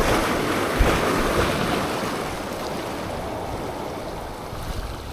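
Sea waves washing on the shore: one surge of surf that slowly fades away.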